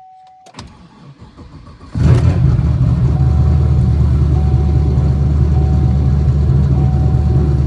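5th-generation Chevrolet Camaro cold start: the starter cranks for about a second and a half and the engine catches quickly, about two seconds in. It then runs at a steady fast idle. A steady tone, likely an ignition chime, cuts off as cranking begins.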